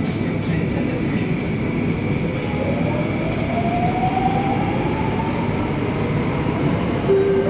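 Running noise inside an SBS Transit C951 Downtown Line metro train, a steady rumble with a whine that rises in pitch from about two and a half to five seconds in as the train picks up speed. A steady chime tone starts near the end.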